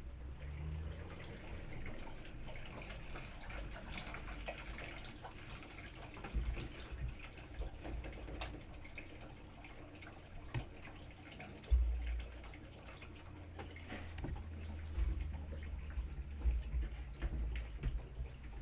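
Washing machine with water running and splashing inside it, with scattered drips and a few low thumps, the loudest about twelve seconds in.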